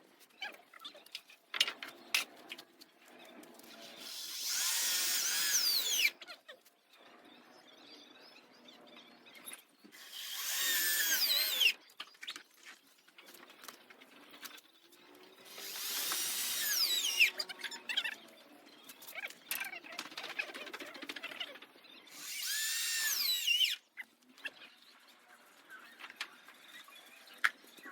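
Cordless power drill driving screws in four separate runs of about two seconds each. Each run's whine builds up and then stops abruptly, with light knocks and clicks of handling in between.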